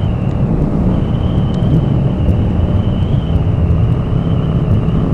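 Motorcycle riding at road speed heard from the rider's microphone: heavy wind rumble over the engine. A steady high whine runs over it, breaking off briefly about half a second in, typical of the odd microphone noise on this recording.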